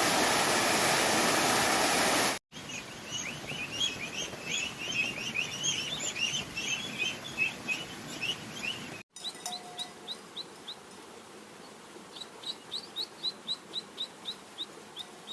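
A steady loud rushing noise cuts off after about two seconds. It gives way to many small birds chirping densely together, then to a run of evenly spaced high chirps, about three a second.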